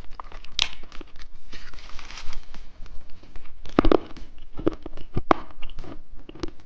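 Plastic candy packaging being handled: crinkling wrappers with many sharp clicks and taps.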